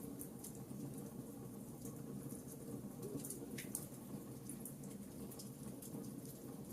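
Wood fire in a fireplace crackling, with irregular small pops over a steady low burning hiss.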